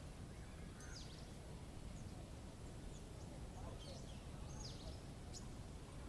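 Faint outdoor nature ambience: a steady low rumble of background noise, with a few short, high bird chirps that slide downward in pitch about a second in and again around four and five seconds in.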